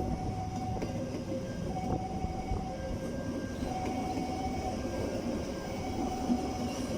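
A train rolling past, its wagons rumbling steadily over the rails, with high held tones coming and going every second or so.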